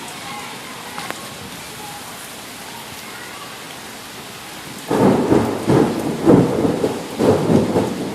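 Steady rain falling. About five seconds in, a loud, uneven rumbling sets in, swelling and easing in several surges for about three seconds, as the wind gusts or thunder rolls over the rain.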